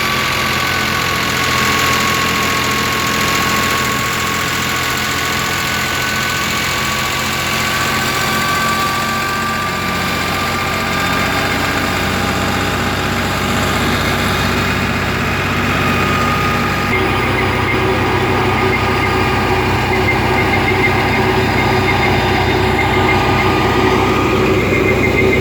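Fiat 480 tractor's diesel engine running steadily while driving a wheat thresher, a continuous mechanical hum with a steady whine over it. The pitch of the hum shifts about two-thirds of the way through.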